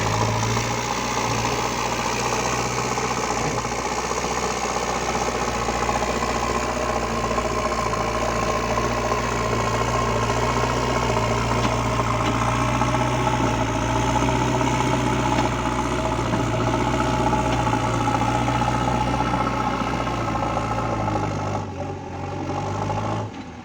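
JCB 3DX backhoe loader's diesel engine running steadily, dropping off about two seconds before the end.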